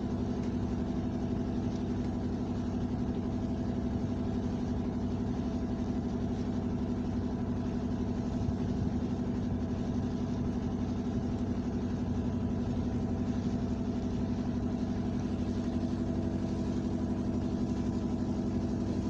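An engine running steadily at an even speed, a constant hum that does not rise or fall.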